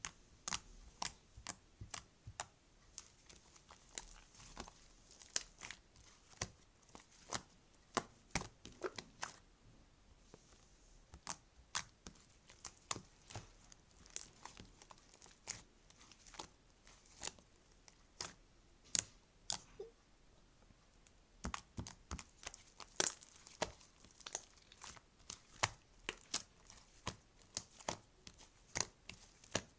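Irregular sharp clicks and crinkly crackles, a few a second, with a short lull around the middle.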